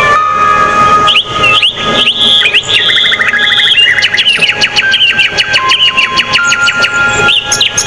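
Dense chorus of songbirds chirping and trilling: rapid repeated notes and whistles overlapping, with some long steady tones held underneath.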